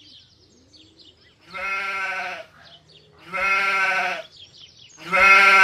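Sheep bleating: three long bleats, each under a second, coming about every two seconds. Faint bird chirps can be heard in the first second and a half.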